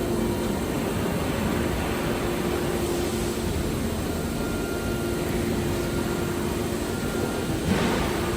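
CNC woodworking machining center running, the spindle and extraction making a steady rushing noise with a constant tone. There is a brief louder swell near the end.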